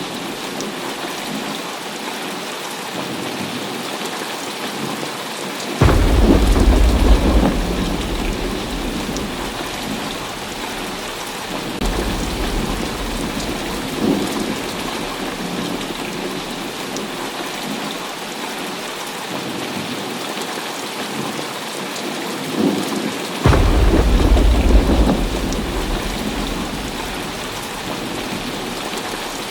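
Heavy rain falling steadily through a thunderstorm. A sudden thunderclap breaks in about six seconds in and rumbles off over several seconds. A lighter rumble follows in between, and a second loud thunderclap comes about 23 seconds in.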